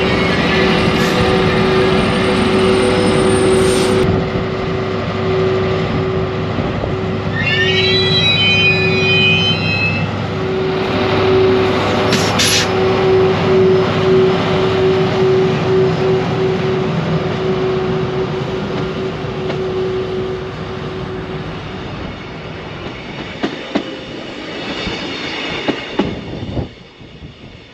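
Caledonian Sleeper train departing behind a Class 73/9 diesel-electric locomotive. The engine drones steadily as the loco and coaches roll past close by, with a brief squeal about eight seconds in. The sound fades as the rear of the train draws away, with a few clicks from the wheels near the end.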